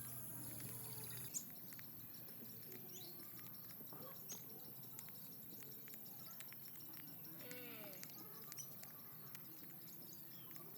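Wild birds chirping faintly, short scattered chirps with one longer falling call past the middle, and a sharp click about a second in.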